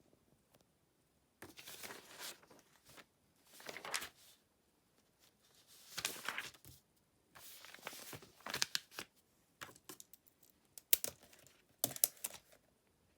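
Intermittent rustling and crinkling from something being handled, in short bursts a second or two apart, with a few sharp clicks near the end.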